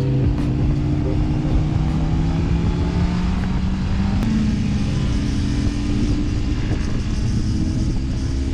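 Honda CB650R's inline-four engine running under way, its note climbing steadily for about four seconds, then changing about halfway through and holding roughly level. Wind noise runs underneath.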